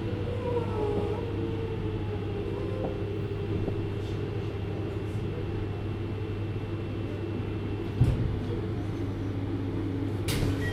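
Interior running sound of a JR 733 series electric multiple unit: a steady low rumble with a faint motor whine that falls slowly in pitch, as when the train is slowing. A single thud about eight seconds in and a sharp click near the end.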